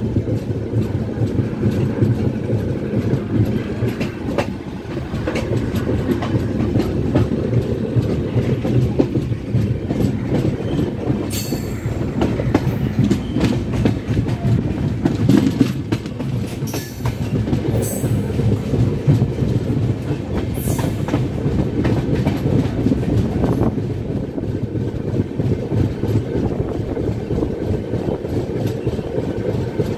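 Passenger train running along the track, heard from on board: a steady low rumble of wheels on rail with a stream of clicks from the wheels over the rail joints. A few brief sharp high sounds cut in near the middle.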